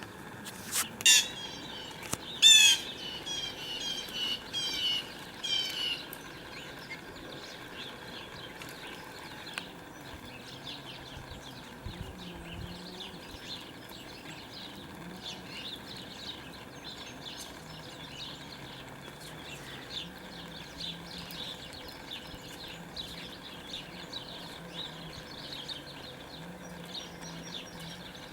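Wild songbirds calling: a few loud, sharp calls repeated in quick series during the first six seconds, then steady faint chatter of many small birds chirping.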